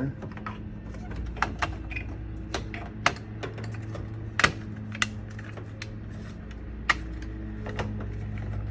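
Hard plastic diorama pieces clicking and knocking as they are handled and fitted together, in irregular taps with a few sharper snaps. The loudest comes about halfway through. A steady low hum runs underneath.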